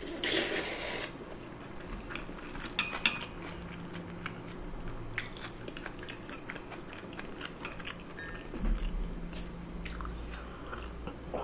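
Close-miked chewing of a mouthful of rice with soft marinated raw shrimp: a loud wet bite as the chopsticks go in, then quiet chewing with scattered small wet mouth clicks.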